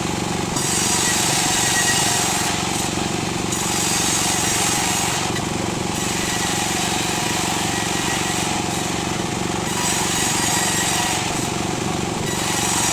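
Table circular saw driven by a single-cylinder dompeng diesel engine, the engine running steadily while the blade rips sengon laut (albizia) wood. The high cutting hiss comes in several long stretches with short breaks between passes.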